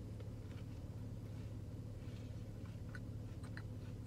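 Quiet chewing with the mouth closed, heard as faint scattered soft clicks over a low steady hum.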